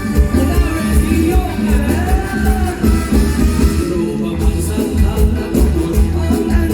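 Live mor lam band music: a heavy, steady drum beat under sustained melodic lines.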